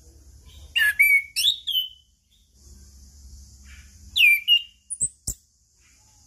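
Chestnut-capped thrush (anis kembang) singing loud, clear whistled phrases of swooping notes, in two bursts: about a second in and again about four seconds in. Two sharp clicks follow near the end.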